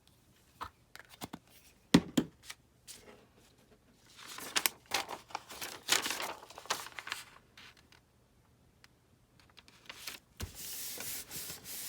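Paper being handled: a few light taps and clicks, a stretch of rustling and crinkling in the middle, then steady rubbing of paper starting near the end as it is glued down.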